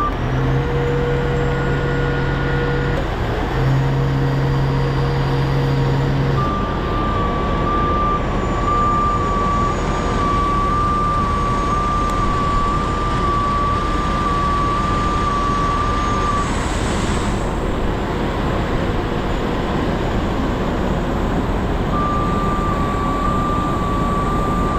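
Heavy rotator tow truck's diesel engine running to drive the hydraulics while the boom is brought down, with an electronic warning beeper sounding in even, repeated beeps for long stretches. In the first six seconds a low steady hum runs under it, broken briefly about three seconds in.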